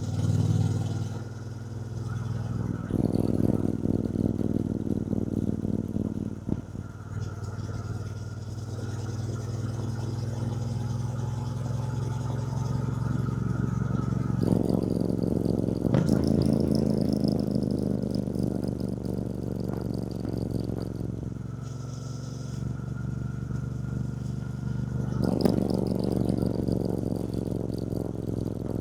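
2024 Triumph Bonneville T120's 1200 cc parallel-twin engine running steadily under way, picking up throttle about three seconds in, again about halfway through and near the end.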